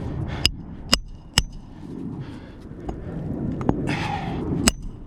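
Hammer driving roofing nails into an asphalt shingle: three sharp, ringing strikes about half a second apart, then another strike near the end.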